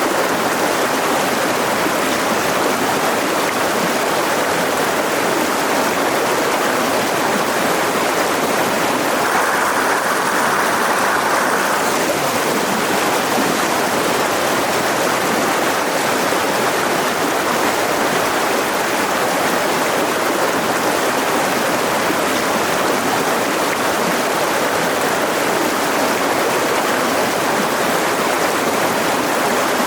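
Mountain river rushing steadily over rocks, a continuous loud wash of water, slightly brighter for a few seconds near the middle.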